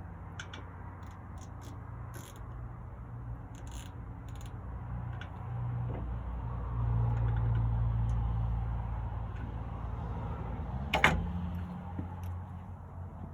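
Hand tools and loose metal parts being handled on the smoker's auger assembly: scattered light clicks and one sharp metallic knock near the end, over a steady low rumble that swells in the middle.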